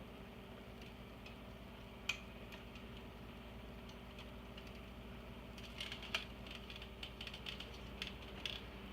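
Small scattered clicks and taps of hands working at the plastic parts of an iMac G3 while trying to free its speakers: one sharp click about two seconds in, then a run of quick taps in the second half. A steady low hum runs underneath.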